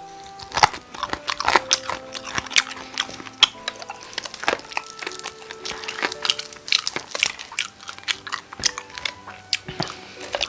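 Close-miked crunching and chewing of crispy Korean market-style fried chicken: many sharp, irregular crunches as the battered crust is bitten and chewed.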